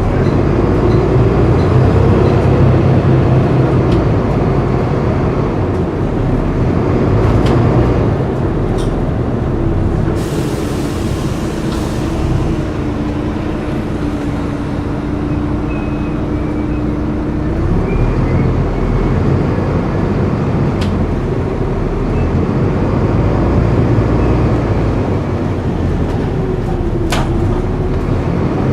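A city bus's diesel engine running while under way, with a whining drivetrain tone that holds steady for several seconds in the middle and then climbs. There are a few brief sharp clicks.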